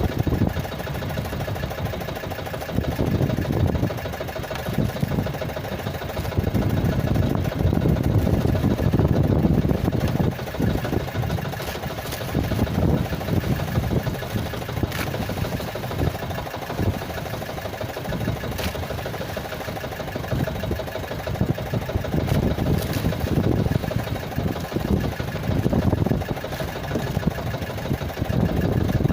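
A small engine running steadily, with a low rumble that rises and falls unevenly.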